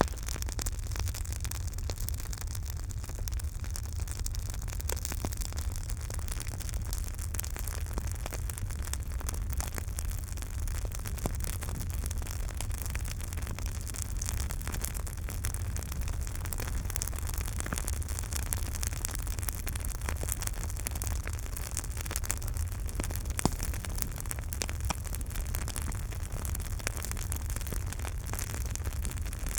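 Campfire burning, with a steady low rumble under dense small crackles and pops of the wood, and one louder pop about three-quarters of the way through.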